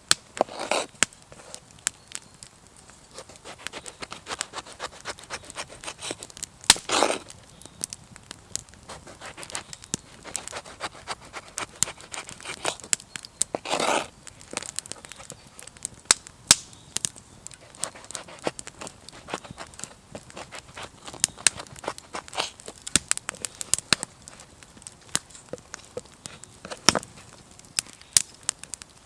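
Wood fire crackling, with dense irregular sharp pops and a few louder, longer cracks.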